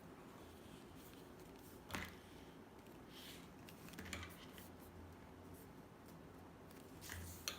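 Quiet handling noises: three light clicks or knocks, about two seconds in, about four seconds in and near the end, over faint room tone.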